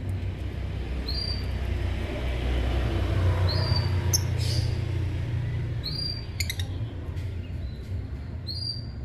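Lovebird giving short, high chirps, four times about every two and a half seconds, with a couple of sharp clicks around the middle, over a steady low rumble.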